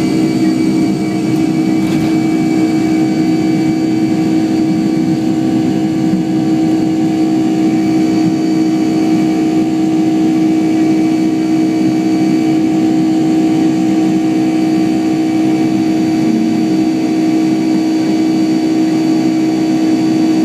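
Boeing 757-200's Pratt & Whitney PW2000-series turbofans heard from inside the cabin at climb power after takeoff: a loud, steady engine noise with a strong low hum and fainter whining tones above it.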